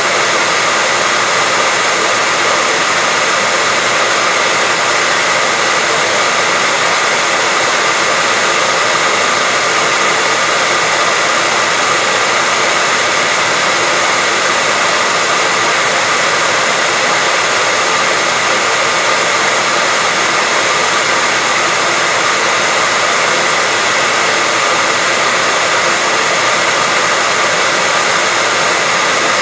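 Hair dryer blowing steadily: an even, unchanging whoosh with a faint whine in it, played as white noise to help a baby sleep.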